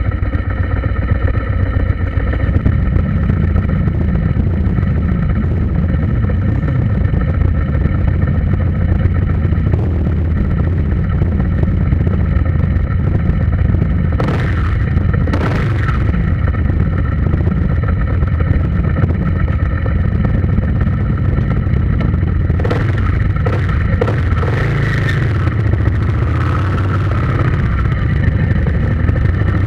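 A motor vehicle's engine running steadily with a heavy low rumble, with a few short rattles or knocks about halfway through and again near the end.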